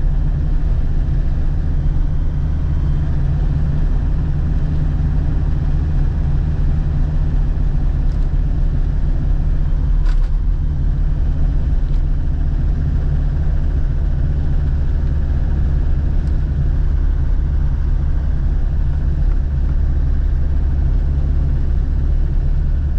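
Land Rover Defender TD5's 2.5-litre five-cylinder turbodiesel running with a steady, deep rumble, and a single click about ten seconds in.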